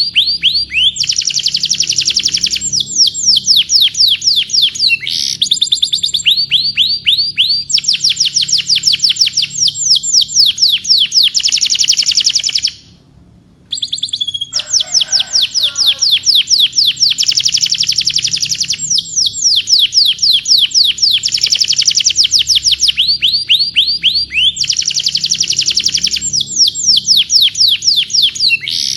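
Domestic canary singing long, rapid trills of repeated high whistled notes, changing from one trill phrase to the next, with a brief break about thirteen seconds in.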